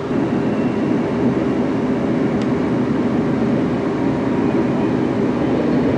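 Steady running rumble heard from inside a moving passenger train, with one faint tick about two and a half seconds in.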